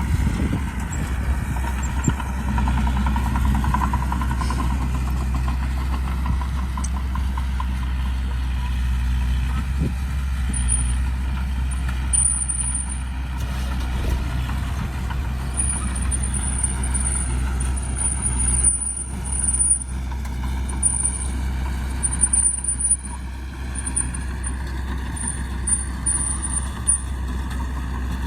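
Heavy diesel earthmoving machinery running steadily under load, a deep engine rumble. From about ten seconds in, a high-pitched squeal comes and goes in short bursts.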